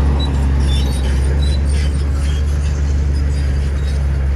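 Bulldozer's diesel engine running steadily with a deep, even hum, plus a few short, faint high chirps in the first couple of seconds.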